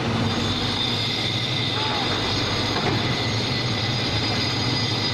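Mini excavator's engine running steadily under load, with a high steady whine over it that sets in just after the start.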